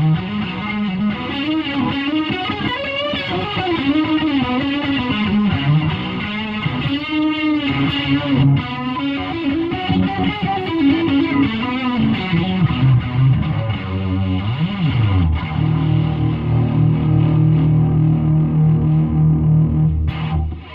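Electric guitar through a Fulltone Octafuzz fuzz pedal and a Fender Super Champ amp, played as a distorted lead line with bending notes. It ends on a long held note that cuts off just before the end.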